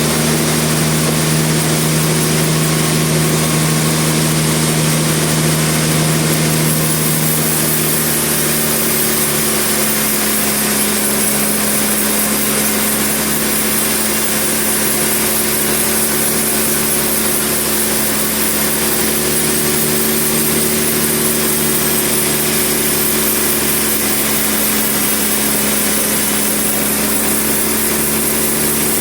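Sawmill machinery running steadily, an engine-driven saw at work on a large log. About seven seconds in, the engine's tone shifts slightly higher and holds there.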